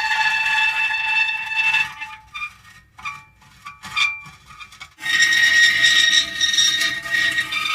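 Metal creaking: a long, high-pitched creak held for about two seconds, then a few short, separate creaks, then another long creak starting about five seconds in.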